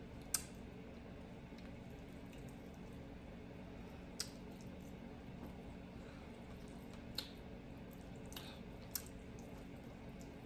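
Faint eating sounds: a handful of sharp, wet mouth clicks and smacks spaced a second or more apart, over a steady low hum.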